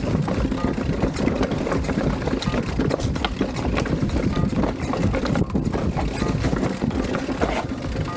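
Downhill mountain bike riding a dirt trail: wind buffeting the action-camera microphone, over a steady tyre rumble with frequent rattles and knocks from the bike over bumps.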